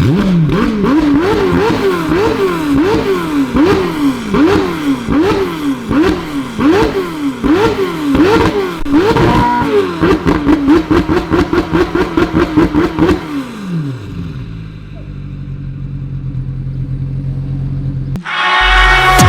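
McLaren 720S twin-turbo V8 through an IPE Innotech F1 exhaust with catless downpipes, blipped about a dozen times in quick succession. It is then held at high revs for about three seconds and drops back to a steady idle. The sound cuts off abruptly near the end.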